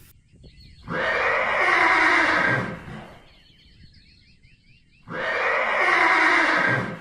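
Horse neighing twice, each call lasting about two seconds, one about a second in and the other about five seconds in.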